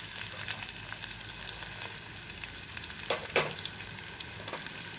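Chopped vegetables sizzling steadily in hot oil in a steel pot. A few sharp clatters come about three seconds in as green peas are tipped in from a plate.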